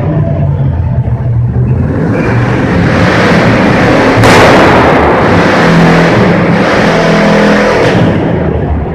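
Car engines revving hard inside a large empty hall, building over the first few seconds and loudest from about four to eight seconds in, then the revs drop away near the end.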